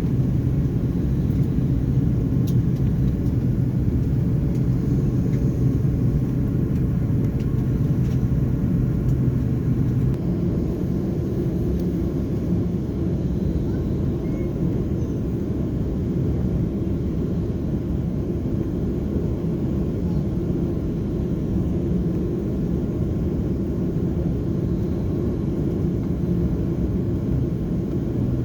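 Cabin noise of an Airbus A330-300 on final approach: a steady low rumble of engines and airflow, whose tone shifts about ten seconds in.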